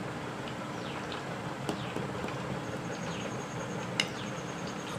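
Background birdsong: repeated quick chirps sliding downward, and a fast, high-pitched pulsing trill in the second half, over a steady low hum. A single sharp click about four seconds in.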